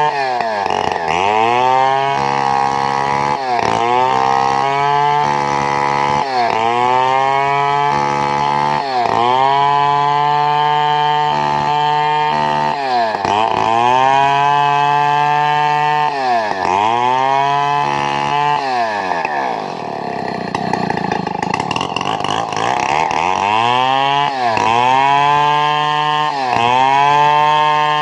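Chainsaw cutting wood, its engine pitch dipping and climbing back every two to three seconds as the chain loads up in the cut. One longer, deeper dip comes about two-thirds of the way through.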